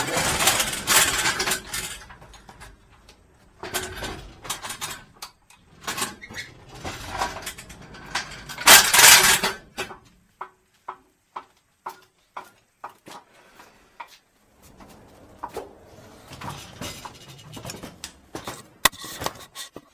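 Irregular metallic clatter and clinks, with two longer loud rattling bursts at the start and about nine seconds in, and scattered sharp clicks between them.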